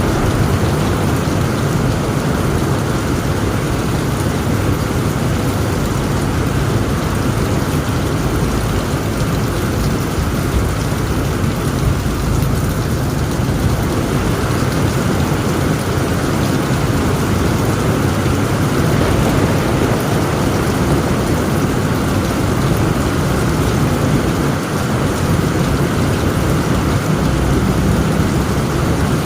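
Heavy rain pouring onto a tent roof: a steady, dense hiss with a low rumble of thunder underneath.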